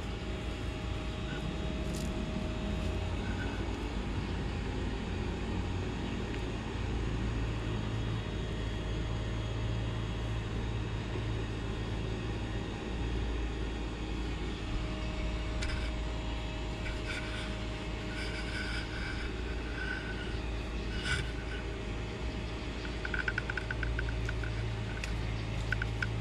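Steady low background rumble, with faint short high chirps and rapid clicking in the second half.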